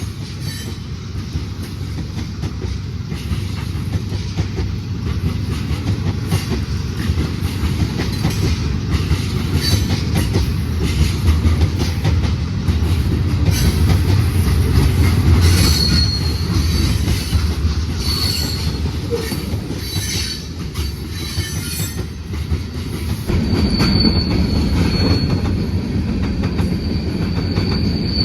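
Freight train rolling by, a heavy rumble with wheels clicking over the rail, growing louder over the first half. Short high wheel squeals come about halfway through, and a longer squeal runs through the last few seconds.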